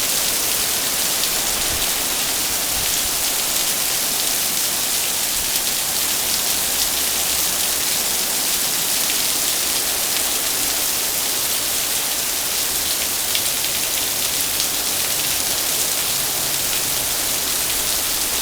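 Heavy, steady rain pouring down, a dense hiss of drops striking the ground and surfaces.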